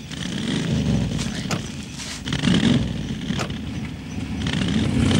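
Pontiac Firebird Trans Am (K.I.T.T.) engine revving in surges as the car backs in reverse to pull free of the brush, with a few sharp snaps along the way.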